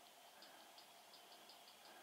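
Faint insect chirping in near silence: a quick, even pulse of about five high chirps a second over a thin steady high tone.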